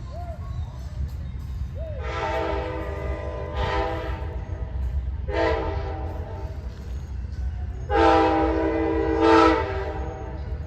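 Locomotive air horn sounding in a series of chords: two long blasts run close together, a short one, then a last long and loudest one, the pattern of a grade-crossing signal. A steady low rumble runs underneath.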